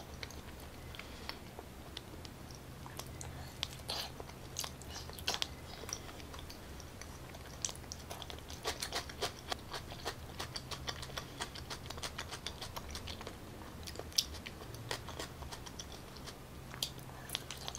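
Close-miked mouth sounds of chewing soft raw salmon sashimi: many small wet clicks and smacks at an uneven pace, over a low steady hum.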